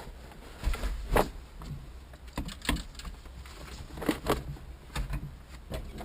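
Irregular light clicks and knocks, about a dozen spread unevenly over a few seconds, from tools and parts being handled while working on the engine; no engine running.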